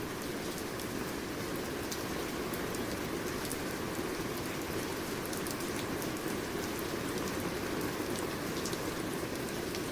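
Steady rain falling, with a constant hiss and scattered individual drop ticks landing through it.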